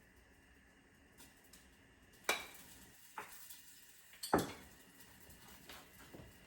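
Cookware knocking: two sharp clanks about two seconds apart, the second the loudest, with a smaller knock between, over a faint steady background.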